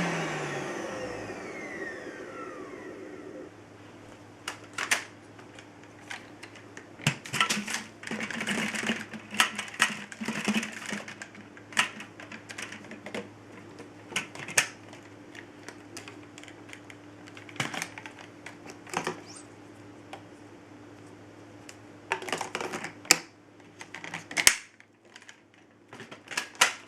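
Dyson Ball Multi-Floor upright vacuum's motor spinning down after being switched off, its whine falling in pitch and fading over about three seconds. Then come scattered sharp clicks and short rattles, the sound of the machine being handled.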